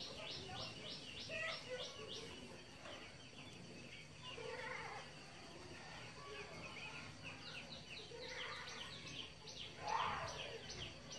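Faint background of rapid high chirps, a bird calling in quick falling notes about five times a second, which fade out about two seconds in and return in the last few seconds. Scattered fainter mid-pitched sounds in between, with a louder one near the end.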